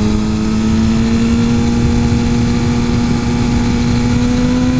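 Suzuki GSX-R 1000 superbike's inline-four engine pulling steadily under light throttle while riding, its pitch creeping slowly up, over a constant low rush of wind noise.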